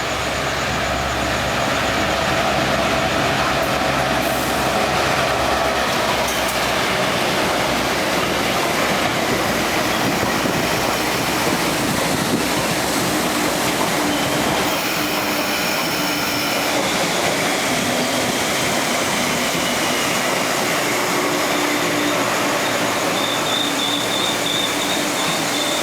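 Freight train with boxcar wagons rolling steadily past on the track, a continuous rumble and rattle of wheels on rail, with a faint thin wheel squeal at times.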